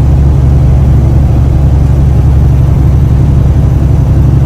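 Semi truck's diesel engine and road noise droning steadily inside the cab while cruising at highway speed.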